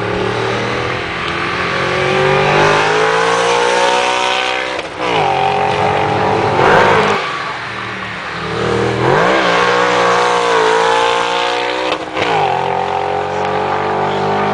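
Drift car's engine revving hard under throttle while sliding, its pitch climbing and falling repeatedly, with sharp drops about five, nine and twelve seconds in as the throttle is lifted and reapplied.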